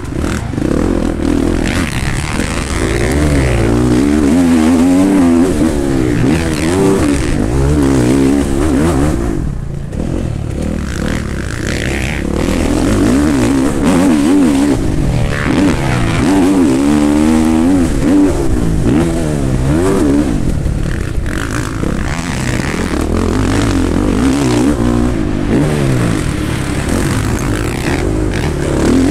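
Motocross race bike engine heard from on board, revving up and dropping off again and again as the rider accelerates out of corners, shifts and shuts off. The throttle briefly closes about ten seconds in.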